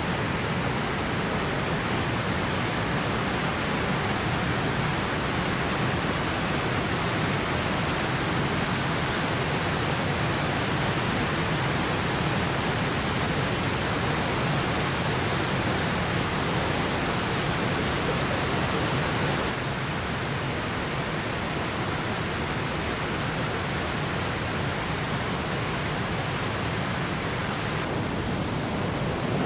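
Steady roar of a large waterfall, Ryumon Falls, its falling water making a dense, even rush. The level drops slightly about two-thirds of the way in.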